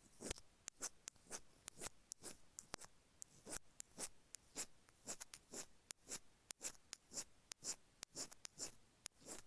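Stainless-steel ear pick scraping the grooved, gritty grille of an iPhone earphone microphone, heard right at the mic: a steady run of short scratchy strokes, about two or three a second, with the odd sharp click.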